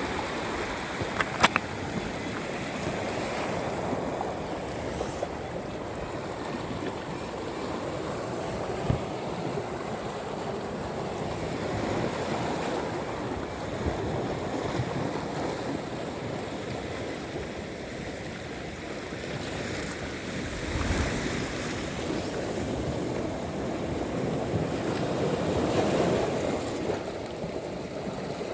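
Sea surf washing onto a sandy beach, a continuous wash that swells and ebbs as each wave comes in. A couple of brief sharp clicks sound about a second and a half in, and another a few seconds later.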